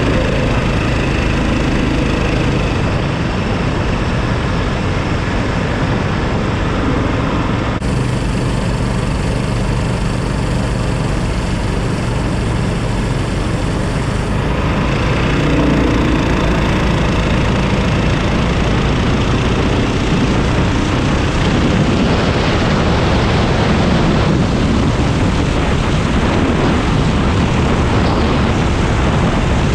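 Racing kart's Predator 390 single-cylinder four-stroke engine running hard at racing speed, a continuous engine sound that gets a little louder about halfway through.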